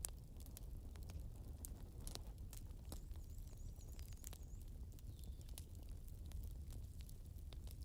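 Campfire crackling: irregular small pops and snaps of burning wood over a low, steady rumble.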